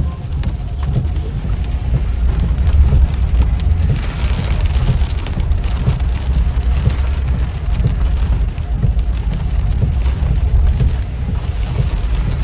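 Rainstorm: rain falling steadily, with wind buffeting the microphone into a loud low rumble.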